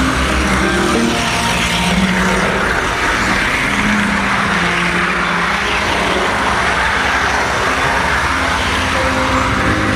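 Model train running steadily on its track: the engine's electric motor hums and the wheels rumble on the rails, picked up close by a camera riding on a flatcar behind the engine.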